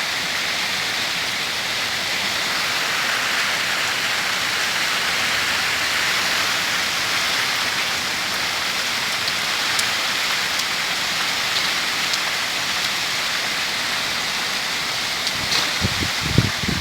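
Heavy rain falling steadily, a dense, even hiss of rain on surfaces. There are a few low thumps near the end.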